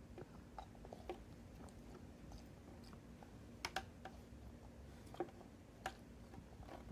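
Toddler eating: faint chewing and mouth sounds with scattered small clicks and taps, a quick pair of louder clicks a little past the middle, over a faint steady hum.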